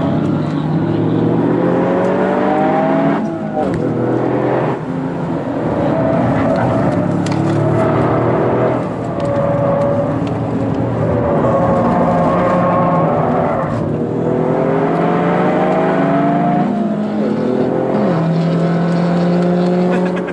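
Toyota GR Yaris's turbocharged three-cylinder engine accelerating hard on track, heard from inside the cabin: the pitch climbs steeply and drops sharply several times, with steadier running between.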